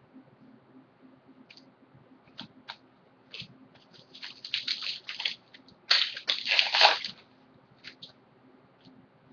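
Foil trading-card pack wrapper crinkling and tearing as it is opened, with light clicks from handling cards. The crinkling builds in the middle and is loudest about two-thirds of the way through.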